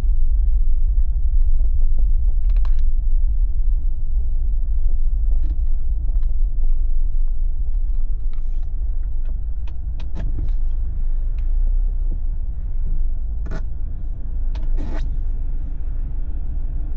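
A Jeep driving, its low steady road and engine rumble running throughout, with a few short sharp clicks or ticks scattered through it.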